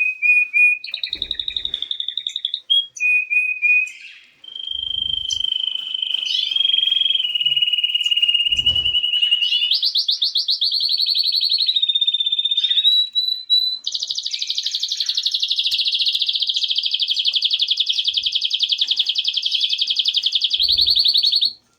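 Canary singing a long, almost unbroken song of rapid trilled tours and held notes, ending in a long fast trill, with a few short low thumps.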